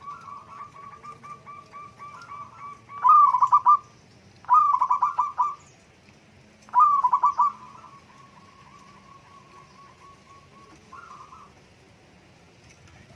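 Zebra dove (perkutut) cooing: a soft run of rapid staccato notes, broken by three louder bursts of about a second each.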